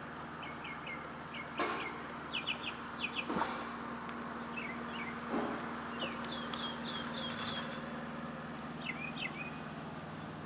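Small birds chirping in repeated short, quick high notes, over a steady low hum, with a couple of sharp clicks in the first few seconds.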